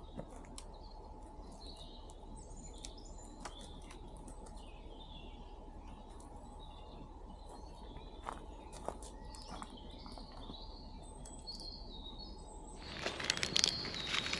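Small birds chirping and calling, with short scattered notes over a faint steady hum. Near the end, a louder rustling noise begins.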